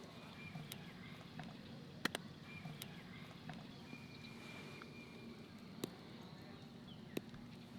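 Wood campfire crackling, with a few sharp pops standing out over a faint, steady background. Brief thin high tones come and go, like distant birds or insects.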